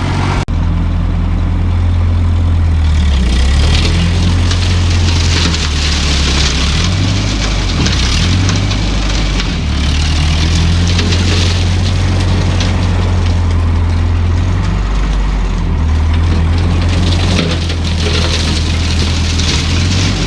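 Ferguson tractor engine running steadily, its low note shifting in pitch a few times as the load or throttle changes, with a high hiss that swells and fades.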